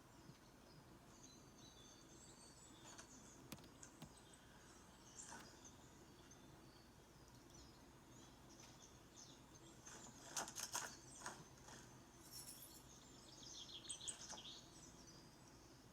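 Faint bird chirps and calls from a bird video playing through a laptop's speakers, with a few sharp clicks about two-thirds of the way through and a quick run of notes near the end.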